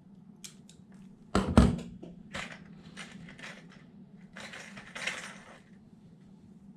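Tools and small metal parts being handled on a workbench: a few light clicks, a loud clatter about a second and a half in, then scattered clicks and a stretch of scraping and rustling.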